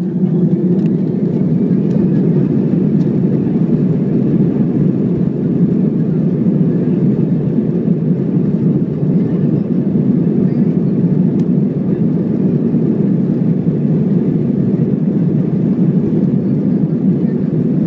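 Steady, loud cabin noise inside an Airbus A320 with its jet engines at climb power: a constant low drone without change.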